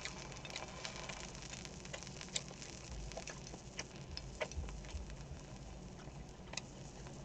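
Pork belly sizzling in a pan, a steady hiss with scattered small crackles and pops of spitting fat.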